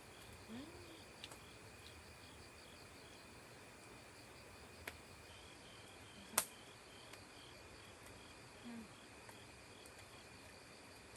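Insects chirping in a steady, rapidly pulsing rhythm, faint throughout, with a few sharp clicks, the loudest about six seconds in.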